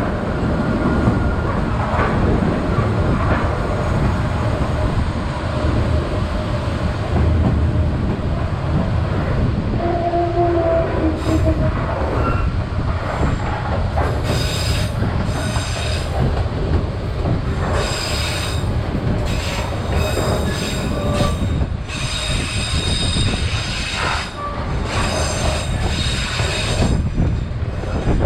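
Vietnam Railways SPT1 passenger train running along the track: a steady low rumble of wheels and carriages, with bouts of high-pitched wheel squeal from about halfway.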